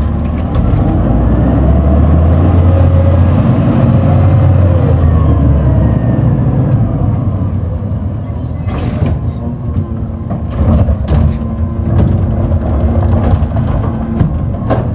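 Garbage truck's diesel engine running hard for the first several seconds, with a steady high hiss of air over it. It then settles lower, with a few sharp clanks.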